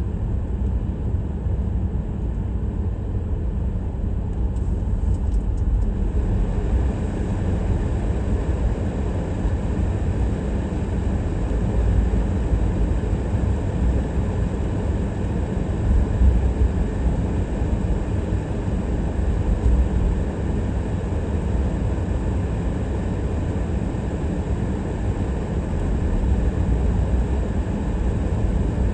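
A car driving, with a steady low road and engine rumble. Tyre hiss grows louder from about six seconds in.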